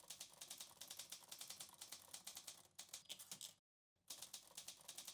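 Faint, rapid typing clicks, about ten keystrokes a second, breaking off briefly about three and a half seconds in.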